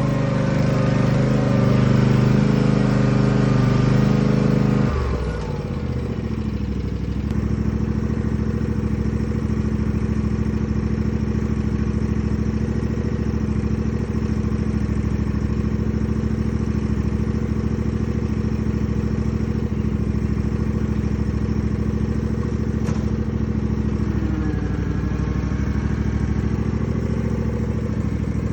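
Engine running hard at high revs, then throttling down about five seconds in and running on steadily at a lower speed, with a brief dip in pitch near the end.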